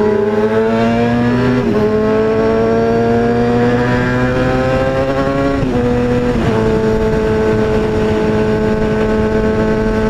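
2003 Kawasaki ZX-6R 636's inline-four engine accelerating through the gears. Its pitch climbs steadily, drops at an upshift about two seconds in and again around six seconds, then holds steady at cruising speed.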